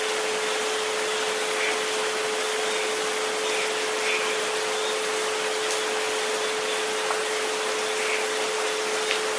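Steady rain hiss with a few faint drop ticks, under a steady pure tone at about 432 Hz with a fainter second tone at about 528 Hz.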